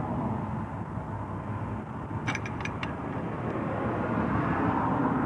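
Steady outdoor background rumble with four quick, light clicks a little over two seconds in, from a removed chain sprocket being handled.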